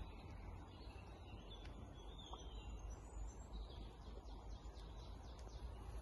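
Faint bird chirps and calls over a low steady rumble.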